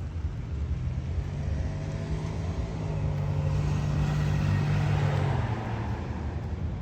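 A motor vehicle passing by: a low engine hum with road noise that builds to its loudest a little past halfway through, then fades.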